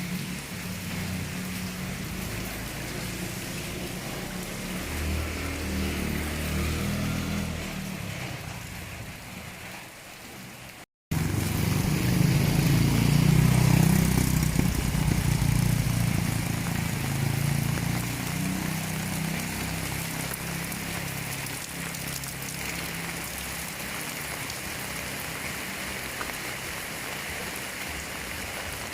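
Steady rain falling, with a motor vehicle's engine passing by and fading. The sound cuts out briefly about eleven seconds in, then a second, louder vehicle passes and fades, leaving the rain.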